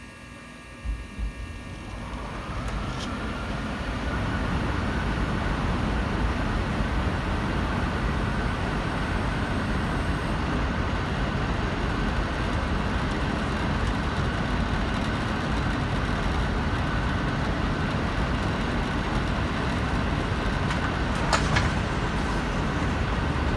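Payne air handler starting on cool: two short clicks about a second in, then the blower's airflow builds over a couple of seconds into a steady rush of air with a faint whine.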